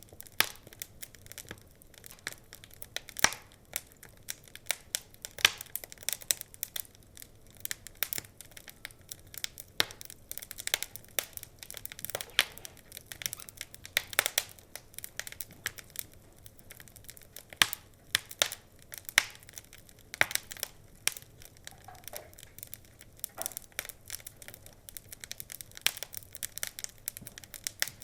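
Wood fire crackling, with irregular sharp pops and snaps over a low hiss.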